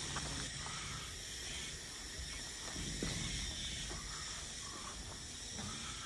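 Steady outdoor hiss with a low rumble underneath and a few faint ticks.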